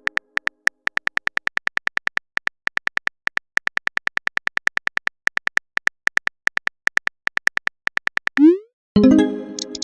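Chat-app typing sound effect: a rapid run of short, high clicks, about five a second with brief pauses. Near the end comes a quick rising bloop as the message is sent, then a short pitched chime.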